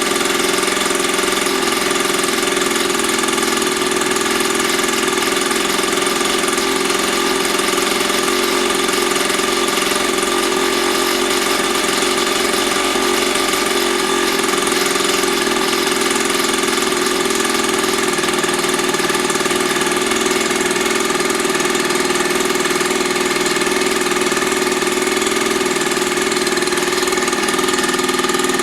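Mini dirt bike's small engine idling steadily at an even pitch, with no revs.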